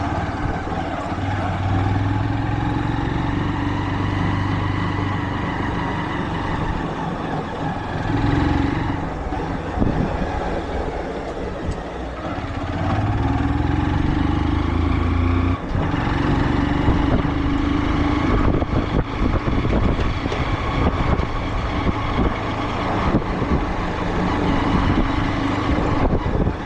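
A motor vehicle's engine running while driving, its pitch shifting up and down with speed through the stretch.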